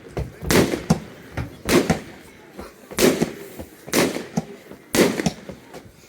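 Fireworks going off in a series of sharp bangs, roughly one a second, each with a short echoing tail.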